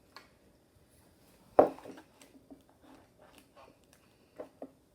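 Hands squeezing and kneading runny slime, giving scattered small wet squishes and pops, with one much louder sudden sound about a second and a half in.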